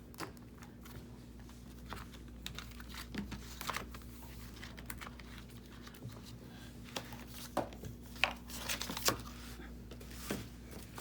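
Paper and cardstock being handled: light rustles, taps and clicks as pieces are moved and pressed into place, busier in the last few seconds, over a faint steady hum.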